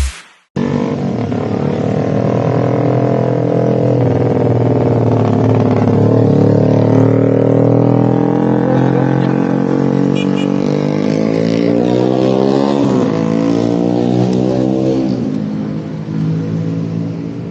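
Honda CBR250RR motorcycle engine running through a DST full-system aftermarket exhaust. It starts about half a second in, and its pitch slowly rises and falls, climbing to a peak and dropping off near the end.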